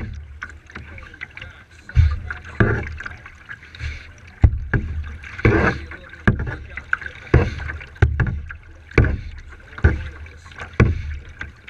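Kayak paddle strokes: the blades dip and pull through the water in a steady rhythm, a splash with a low thump roughly every 0.8 seconds.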